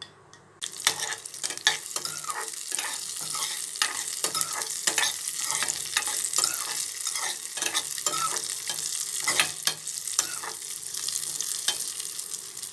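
Cashew pieces and raisins frying in hot ghee in a metal kadai, sizzling steadily from about half a second in. A spoon stirs them, scraping and clicking against the pan.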